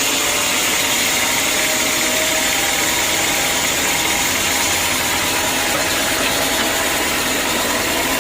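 Sawmill machinery running steadily: a constant, even mechanical noise with a low hum underneath.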